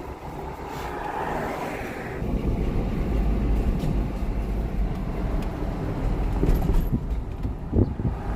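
Car driving along a road: steady road noise with a deep wind rumble that grows heavier about two seconds in.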